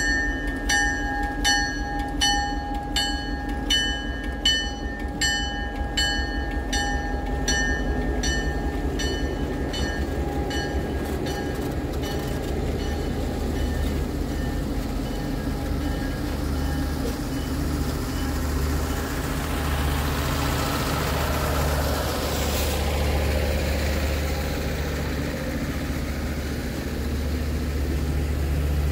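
Locomotive bell ringing about twice a second as a train gets under way; the strokes fade out about ten seconds in. A steady low engine hum and the rising rush of the train running by follow, loudest a little past the middle.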